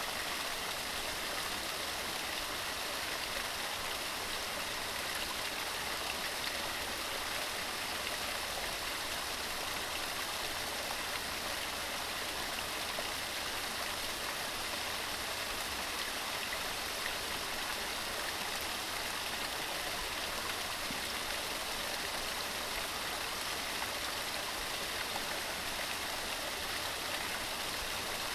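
Mountain stream rushing steadily over rocks: an even, unbroken hiss of running water.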